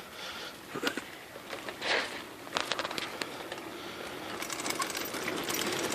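Bicycles rolling along: scattered clicks and rattles, then a rising rolling noise with fast fine ticking from about four seconds in.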